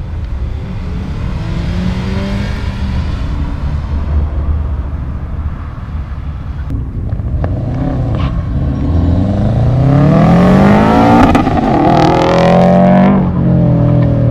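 Car engine revving as the car accelerates hard, its pitch climbing in several rising sweeps. It grows loudest about ten seconds in, then eases off near the end.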